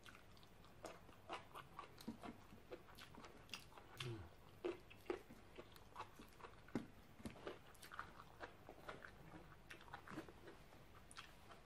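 Close-up chewing and biting of raw stink beans (sataw): soft, crisp crunches coming irregularly, about two a second.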